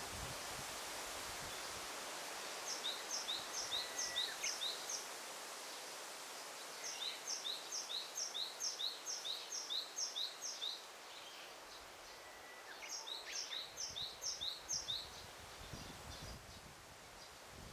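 Daytime forest ambience: a songbird repeats a quick series of high, clipped two-part notes, about four a second, in three bouts of a few seconds each, over a steady hiss of rustling leaves.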